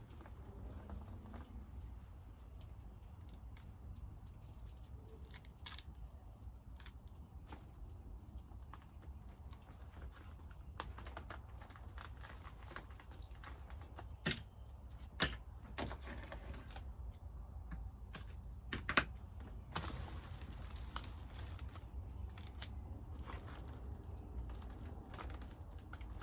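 Scissors cutting paper, with paper handling: scattered short snips and clicks, irregular, over a low steady hum.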